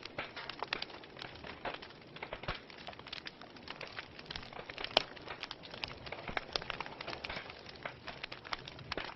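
Wood fire crackling: a steady run of irregular snaps and pops over a soft hiss, with one sharp loud pop about five seconds in.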